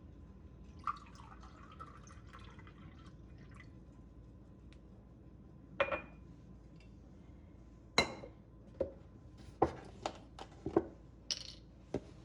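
Kitchen handling sounds: a short, faint pour of liquid about a second in, then a run of sharp clinks and knocks of dishes or glassware in the second half.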